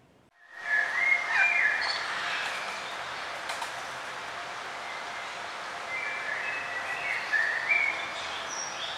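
Parrots chirping and calling over a steady noisy background, starting abruptly about half a second in.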